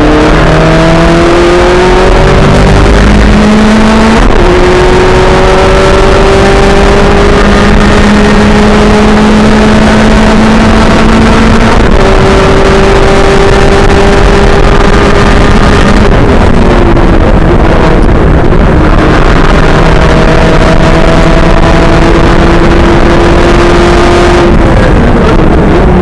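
Race car engine on a circuit, loud and pulling hard through long stretches with its pitch climbing slowly and stepping at gear changes. The pitch falls about two-thirds of the way through and again near the end as the car slows for corners, then picks up again.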